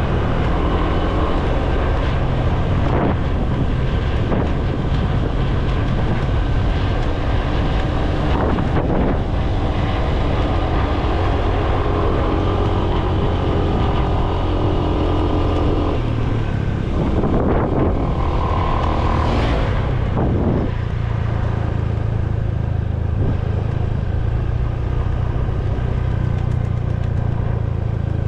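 Motorbike engine running steadily while riding, a constant low hum under a rushing noise, with something louder swelling past around two-thirds of the way through.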